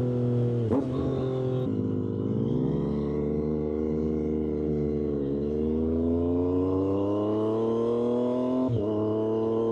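Triumph Street Triple 765 RS's inline three-cylinder engine through an SC-Project aftermarket exhaust, pulling under acceleration. Its pitch climbs steadily and is broken by quick gear changes about a second in, near the middle and near the end.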